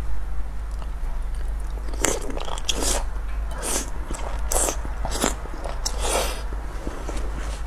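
Close-miked eating: a person biting and chewing food, in a run of about eight short mouth noises starting about two seconds in, over a steady low hum.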